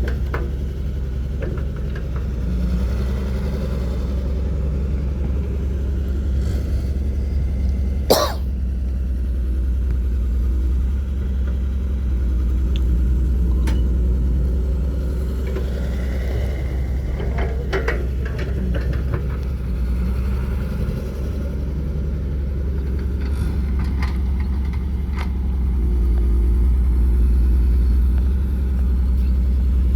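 Diesel engines of tractors and a JCB backhoe loader running steadily at work loading sand, a deep constant engine sound. A sharp knock comes about eight seconds in, and a few fainter clanks come a little later.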